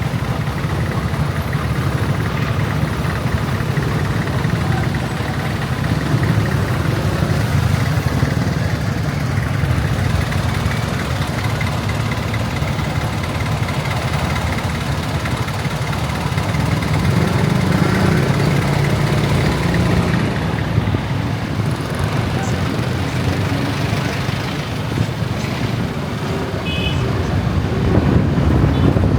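Motorcycle engine running under way, with road and wind noise. The engine pitch shifts a little about two-thirds of the way through.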